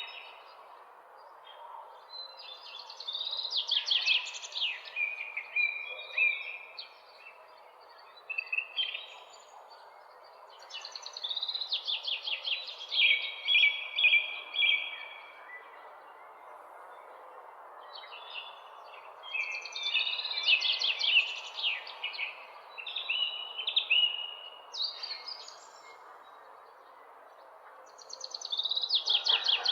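Songbirds singing in phrases of quick, rapidly repeated chirps and trills, each phrase a few seconds long with pauses between, over a steady background hiss.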